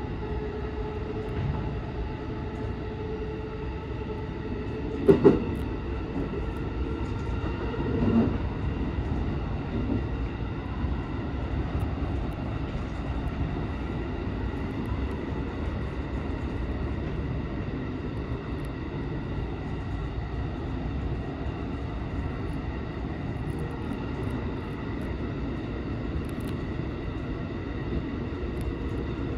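JR West 223 series 2000 electric train running, heard from the driver's cab: a steady rumble of wheels on rail with faint steady motor tones. About five seconds in come two sharp knocks close together, and a weaker bump about three seconds later.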